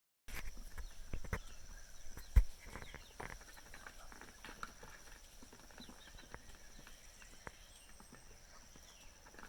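Outdoor ambience: a steady high-pitched drone, with scattered clicks and knocks and one sharp thump about two and a half seconds in.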